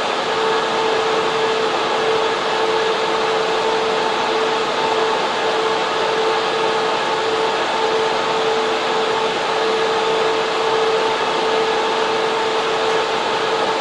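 Server room fans and air cooling running as a steady loud hiss, with a constant hum over it.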